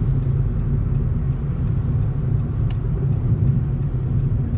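Steady low rumble of road and engine noise inside a moving car's cabin, with a faint click a little over halfway through.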